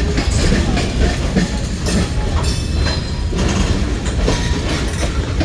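Freight train rolling past at close range: a steady deep rumble with the wheels clicking over the rail joints again and again.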